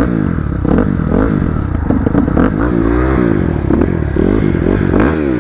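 Dirt bike engine running and revved in quick, repeated throttle blips, its pitch rising and falling over and over.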